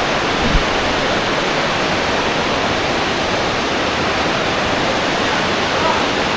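Steady rushing roar of the Tumpak Sewu waterfall's falling water, with a brief low knock about half a second in.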